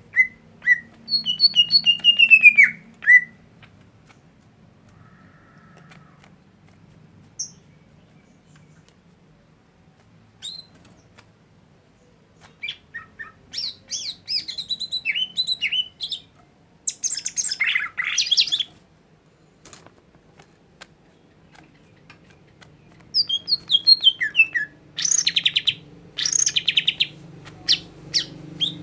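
A songbird singing in three bouts of quick chirps, rapid trills and downward-sliding whistles, with long pauses between the bouts.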